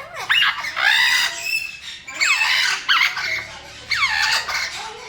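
Parrot squawking and squealing in repeated bursts of sweeping, high calls, roughly one burst every second.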